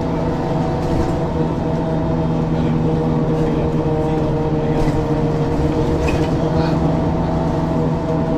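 Ikarus 435 bus's diesel engine running at a steady pitch, with a few faint ticks.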